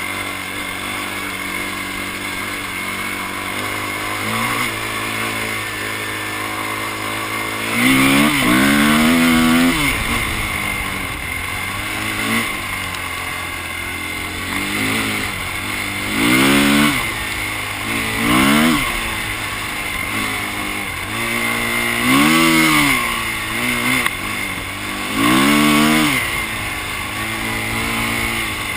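Dirt bike engine running. It holds steady for the first several seconds, then is revved up and drops back several times, each rev a rise and fall in pitch.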